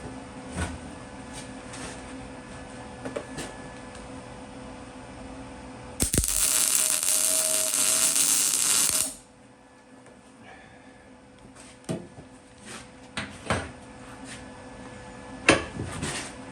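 MIG welder laying a weld bead on a steel exhaust baffle: a loud, even hiss that starts suddenly about six seconds in, lasts about three seconds and cuts off. Before it a steady hum; afterwards a few sharp metallic clinks and knocks.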